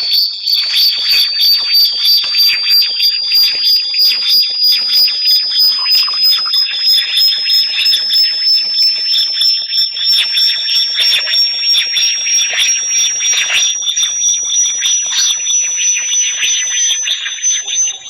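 Synthesized high-pitched bat-repellent tone: a steady whistle that slowly glides upward, over a chirping, pulsing layer that beats a few times a second. It fades out near the end.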